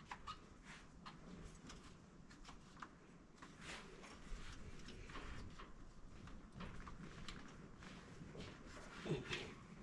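Faint, irregular clicks and light taps of small hard objects being handled, with a slightly louder cluster about nine seconds in.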